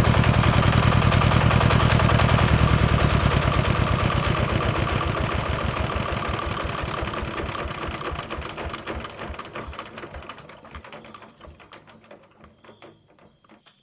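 Two-stroke chainsaw engine running with a rapid, even firing beat. It then slowly fades and slows until it dies away near the end.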